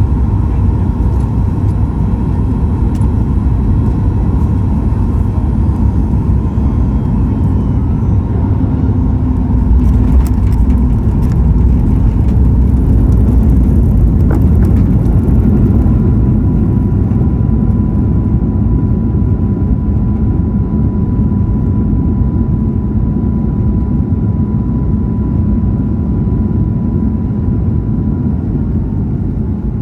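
Cabin noise inside a Boeing 737-9 MAX airliner: a loud, steady, low rumble of engines and airflow. A thin steady whine comes in about halfway and stops near the end.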